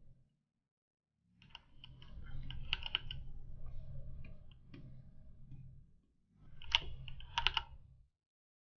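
Computer keyboard keys and mouse clicks tapping in two spells, the second starting about six and a half seconds in, over a low hum.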